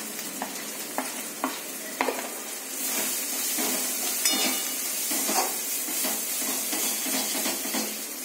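Onion-tomato masala puree sizzling in ghee in a steel kadhai as a steel spoon stirs and scrapes it, with scattered clinks of the spoon against the pan. The spices are being fried into the puree; the sizzle grows louder after about three seconds.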